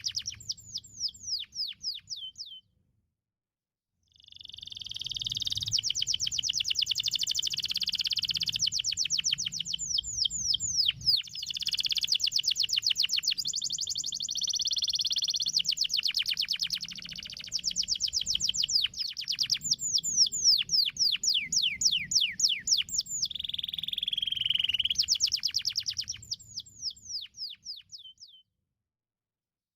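Domestic canary singing: fast, high-pitched trills of rapidly repeated down-slurred notes, broken by a pause of about a second and a half near the start and stopping shortly before the end.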